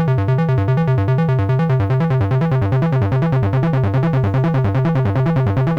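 Analog modular synthesizer playing a fast repeating sequence of short low notes, two oscillators running, with a short envelope bending one oscillator's pitch at the start of each note to give a brass-like 'lip' or bite. The tone is brighter for the first second and a half.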